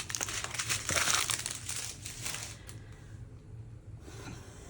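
Plastic packaging crinkling as it is handled: small bags of diamond painting drills being sorted, busiest in the first two seconds and dying down after.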